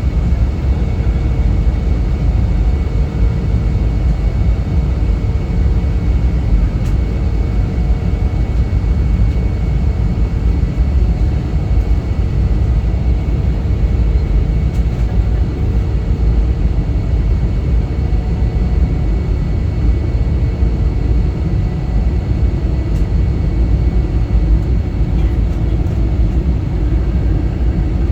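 Airliner cabin noise: a steady deep rumble of engines and airflow with a faint high whine, unchanging throughout.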